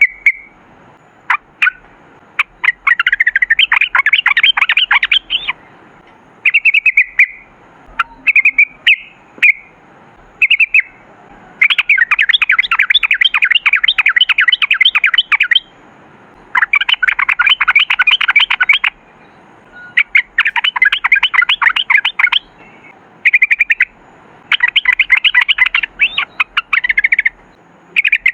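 Yellow-vented bulbul (trucukan) singing. Short clear calls alternate with long bursts of fast, rattling chatter, each lasting two to four seconds, with brief pauses between phrases.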